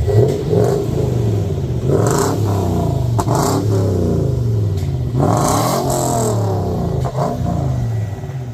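2005 Toyota Sequoia's 4.7-litre V8 revved through a muffler-deleted exhaust that keeps its resonator, with about five quick blips of the throttle, each rising and falling in pitch.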